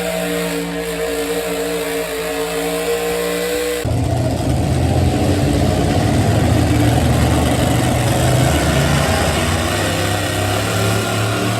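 Four-wheel-drive pulling truck engine held at high, steady revs. About four seconds in, the sound switches abruptly to a louder, deeper and rougher engine sound that carries on steadily.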